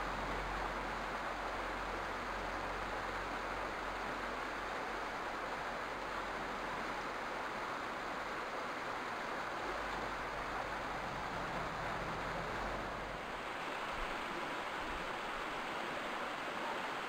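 Steady, even rushing noise with no distinct bird calls, and a faint low rumble that fades out about halfway through and returns briefly near the end.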